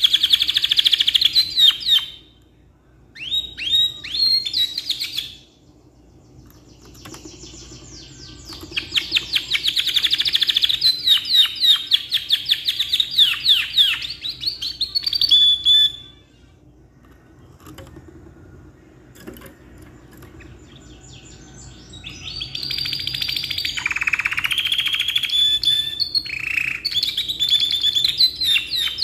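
Domestic canary singing long phrases of rapid trills and rolls, each lasting a few seconds up to about nine, broken by short pauses.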